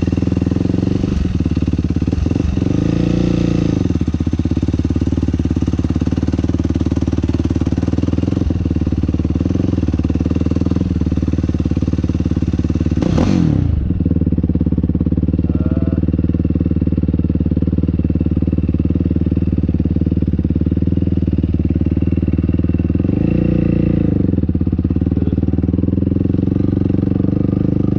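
Yamaha YFZ450R quad's single-cylinder four-stroke engine running loudly under riding, mostly holding a steady pitch, with a quick rev up and back down about halfway through and smaller dips in pitch near the start and near the end.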